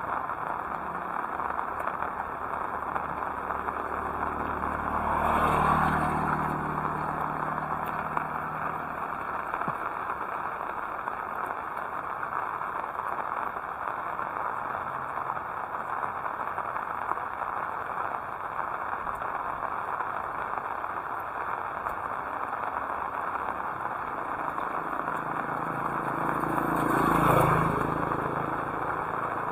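Steady heavy rain hissing, with a motor vehicle passing about five seconds in and another near the end, each swelling louder and then fading.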